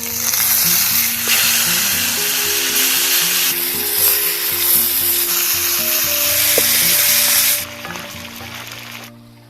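Food frying in hot fat, a loud, steady sizzle that eases off near the end and then stops, over background music.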